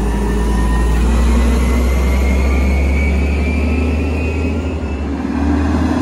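Diesel engine of a Volvo WX automated side-loader garbage truck running at raised revs while its Bridgeport Ranger arm works. A steady low drone carries a whine that slowly rises in pitch.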